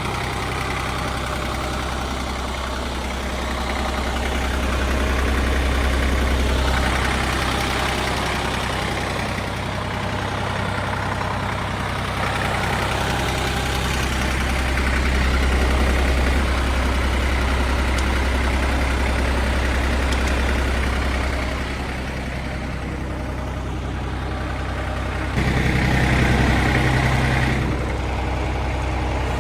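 1962 Porsche 329 tractor's air-cooled three-cylinder diesel engine running, its speed rising and falling a few times, with a louder spell of about two seconds near the end.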